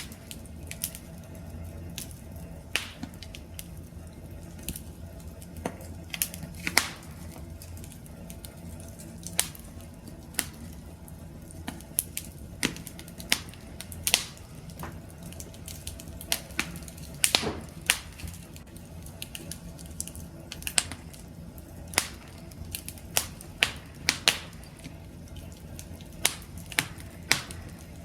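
Wood fire crackling: irregular sharp snaps and pops over a low, steady rumble of flame, with a cluster of louder pops in the second half.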